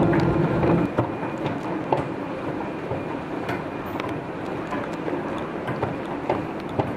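Cabin noise inside an Airbus A321-200 on the ground after landing: a steady hum stops about a second in, leaving a rumbling haze with scattered clicks and knocks.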